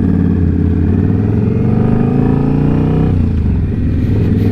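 Indian Scout Bobber's V-twin engine running under way; about halfway through its pitch climbs, then drops suddenly a little after three seconds in.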